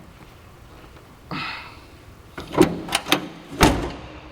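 Rear door of a 1988 Toyota Land Cruiser HJ61 being worked: a short rustle, then a few sharp latch clicks and a louder knock as the door is opened.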